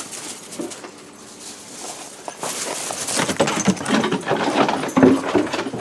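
A dog playing at close range: a short whine about a second in, then panting and scuffling, with collar tags jingling.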